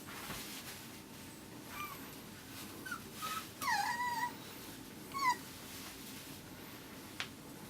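Miniature schnauzer puppy whimpering: five or six short, high whines, the longest about four seconds in, dipping and then rising in pitch. A single sharp click near the end.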